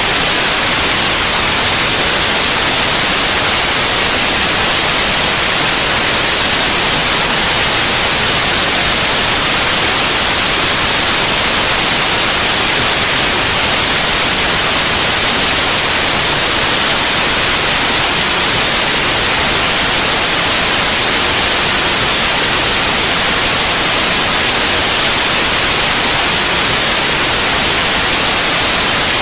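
Steady, loud white noise: an even hiss with no change or events, used as a sleep sound for babies.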